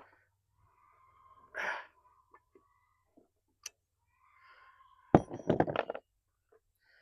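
A short breathy exhale about a second and a half in, then near the end a quick cluster of sharp knocks and clinks, the loudest sound, from tools and metal parts being handled during work on an outboard motor.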